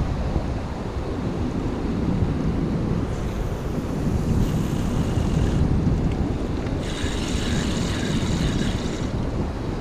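Wind buffeting the microphone over the wash of sea waves, with two stretches of louder hissing surf midway and near the end.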